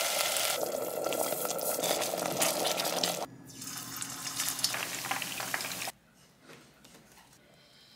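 Hot oil sizzling and crackling: a garlic-and-chili sauce frying in a pot, then beef meatballs deep-frying in oil, changing abruptly between shots. The sizzle cuts off suddenly about six seconds in and the rest is nearly quiet.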